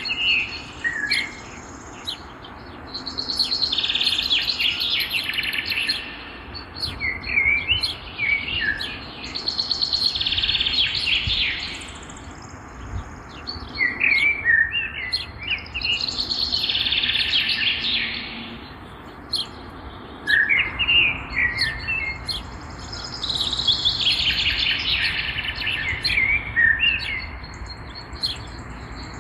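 Songbirds singing: a dense trilling phrase of about two seconds comes back every six or seven seconds, with short sharp chirps between the phrases.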